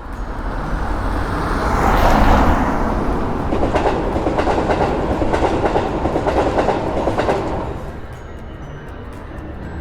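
Train passing: a rushing noise builds to a peak about two seconds in, then the clickety-clack of wheels over rail joints repeats for several seconds before fading away.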